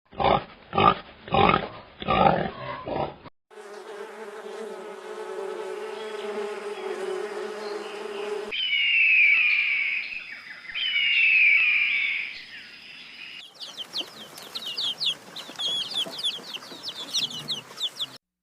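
A run of separate animal sound clips cut together: about four loud rhythmic calls, then a steady buzzing hum for several seconds, then two loud falling bird calls, then a burst of rapid bird chirping near the end.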